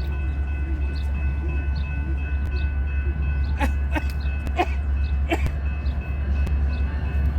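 Train rumbling steadily at the railroad diamond, with a crossing bell dinging faintly and several sharp metallic clacks between about three and a half and five and a half seconds in.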